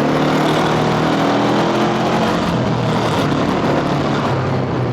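Motor scooter's engine pulling steadily up a steep climb, a steady stack of engine tones under an even rush of noise.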